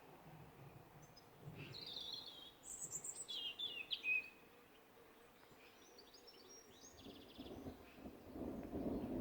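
Birds singing, a few clear phrases between about one and a half and four seconds in, then softer chirping. A low rumble builds near the end.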